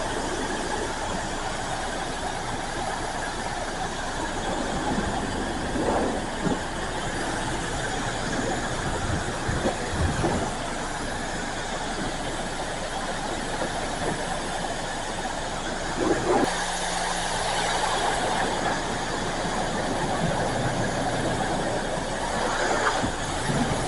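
High-pressure wand at a self-serve car wash spraying soap onto a car: a steady rush of water spray. About sixteen seconds in the sound changes abruptly and a steady low hum comes up.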